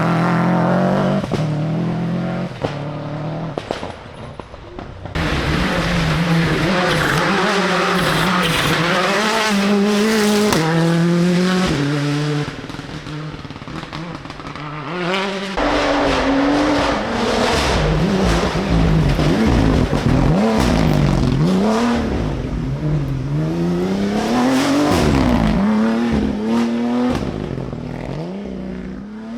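Rally car engines revving hard, climbing in pitch and dropping back at each gear change, with lifts and blips of the throttle in between. The sound switches abruptly to another car about five seconds in and again about fifteen seconds in.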